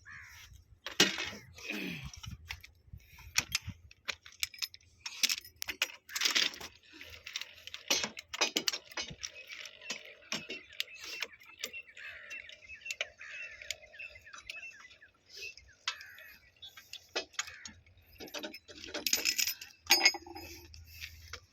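Irregular metallic clinks and knocks of hand tools and steel fittings being handled while a railway point machine's rods are fitted.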